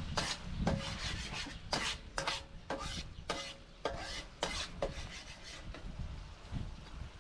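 Repeated scraping strokes of a cooking utensil against a metal pot, about two a second, some with a faint metallic ring; the strokes die away after about five seconds.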